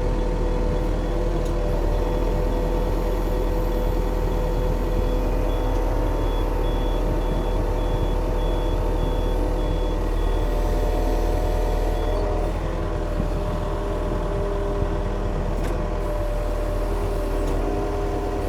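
Yanmar machine's diesel engine running as it backs out through mud, its reverse alarm sounding a steady train of high beeps. About twelve seconds in the beeping stops and the engine note shifts.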